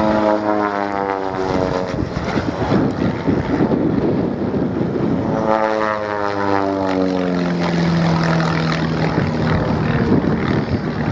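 Pitts Special aerobatic biplane's piston engine and propeller running hard during aerobatics. The engine note falls in pitch twice, first at the start and again about five and a half seconds in.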